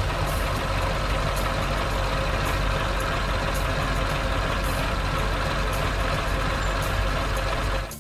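Heavy vehicle engine running steadily with a deep rumble, then cutting off suddenly near the end.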